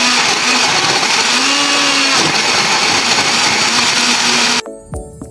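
Countertop blender running at a steady pitch, blending tangerine pieces, eggs, sugar and oil into a liquid cake batter. It cuts off suddenly near the end, and music follows.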